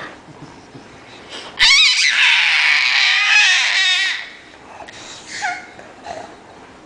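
A pet monkey screeching: one long, high, wavering screech about two and a half seconds long, then a few short, softer calls.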